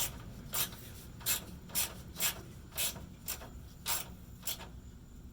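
Hand ratchet wrench being worked back and forth to run down a fastener, a short rasping burst of clicks on each swing, about two a second. The strokes stop about four and a half seconds in.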